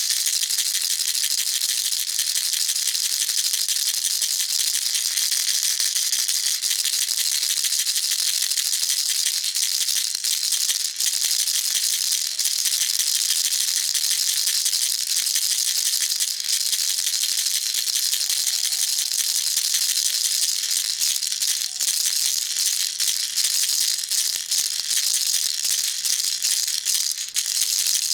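Baby rattle shaken continuously, a dense steady rattling of small beads, breaking into more separate shakes in the last several seconds.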